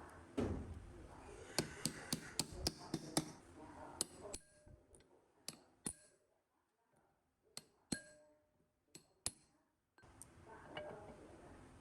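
Metal tools and small engine parts clinking and tapping: a knock, then a quick run of sharp clinks, then scattered single taps.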